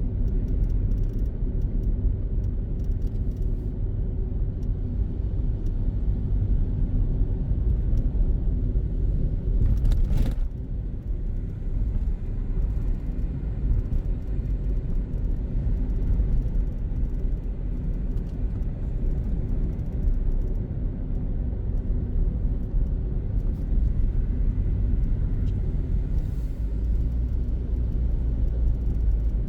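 Steady low rumble of a car driving in city traffic, heard from inside the car: engine and tyre noise. A short sharp noise comes about ten seconds in.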